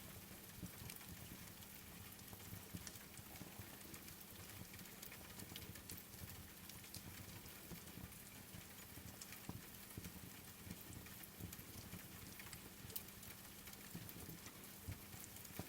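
Steady rain falling, with many scattered sharp crackles and pops from a wood fire burning in a fireplace.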